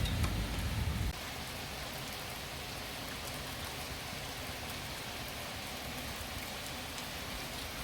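Steady rain falling during a thunderstorm, an even hiss with scattered drop ticks. A low thunder rumble is still sounding at the start and cuts off abruptly about a second in.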